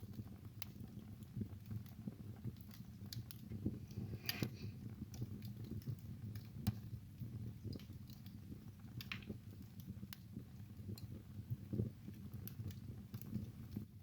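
Wood fire burning in a fireplace: irregular crackles and pops over a low steady rumble, with a brief hiss about four seconds in.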